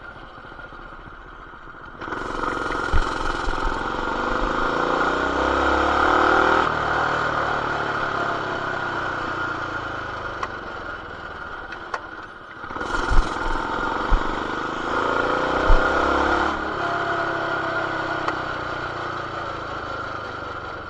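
BT200X mini bike's small single-cylinder engine with a stage 1 kit (intake, header and RLV exhaust) pulling under throttle twice, its pitch rising each time and then dropping back off the throttle. A few sharp knocks come through over the engine.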